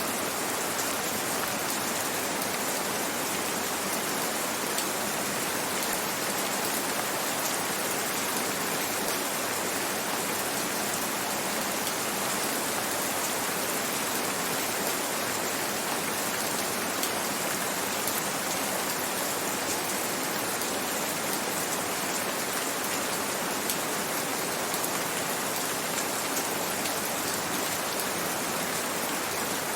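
Gentle rain falling steadily: an even hiss with a fine patter of drops.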